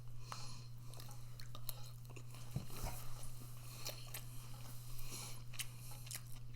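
A person chewing a mouthful of microwaved rice close to the microphone: soft, irregular mouth clicks and smacks, over a steady low hum.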